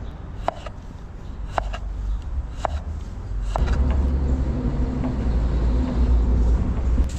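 Knife strokes on a cutting board about once a second, then a loud low rumble of a passing motor vehicle starting about halfway through and lasting almost to the end.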